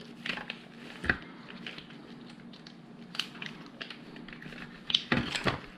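Plastic LEGO pieces clicking and rustling as they are handled and pressed together, with a sharper click about a second in and a quick run of clicks near the end.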